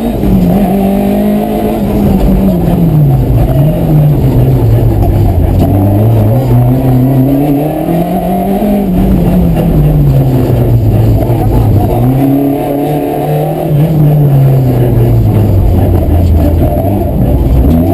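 Rally car engine running hard, its pitch climbing and then dropping again several times as the car accelerates, shifts and lifts off between corners.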